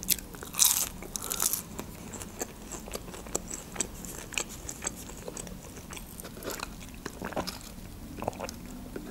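Close-miked eating of French fries: two louder bites in the first second and a half, then soft, steady chewing with small wet mouth clicks.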